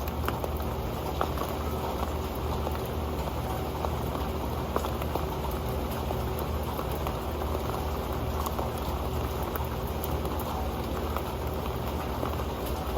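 Rain falling steadily onto an old metal pan, a continuous patter of drops with scattered sharper ticks.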